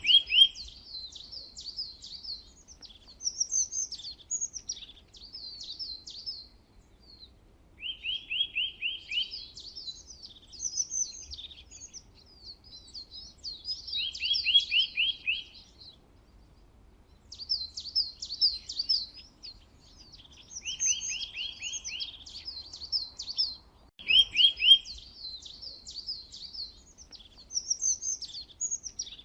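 Songbirds singing: a short fast trill recurs every several seconds, with jumbles of quick high chirps between the trills.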